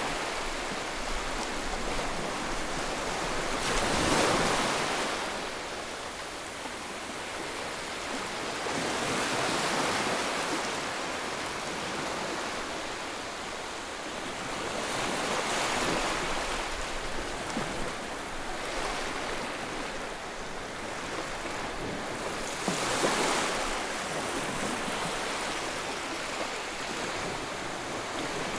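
Ocean waves breaking on a shore, a steady wash of surf that swells every five to seven seconds, with the loudest breaks about four seconds in and near the end.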